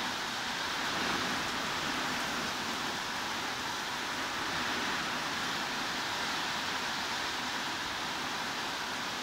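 Steady heavy rain, an even hiss with no distinct drops or changes.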